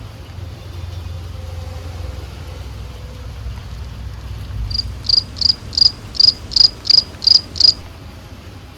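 Steady rain hiss with a low rumble underneath. A little past halfway, a cricket chirps about nine times in quick succession, roughly three chirps a second, high-pitched and louder than the rain.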